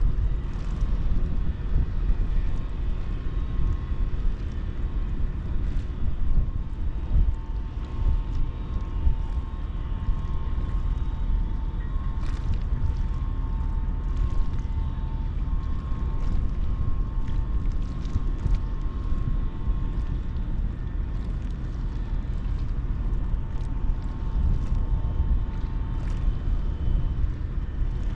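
Ro-ro passenger ferry under way: a steady low rumble with a faint steady hum above it and scattered light ticks.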